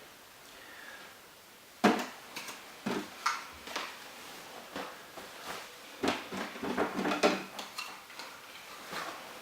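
A sudden loud knock about two seconds in, followed by a run of smaller clicks, knocks and clatters of hard objects.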